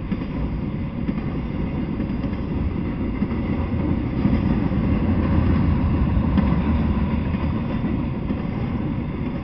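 Intermodal freight train, truck trailers on flatcars, rolling past close by: a steady rumble of wheels on rail that swells a little around the middle.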